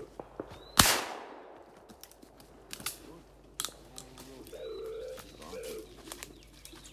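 A single loud shotgun shot about a second in. Several fainter sharp cracks follow, and doves coo near the end.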